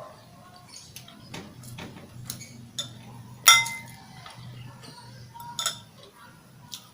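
Tableware clinking and tapping during a meal: a string of light taps, the loudest about halfway through with a short ringing tone like a plate or bowl struck, over a steady low hum.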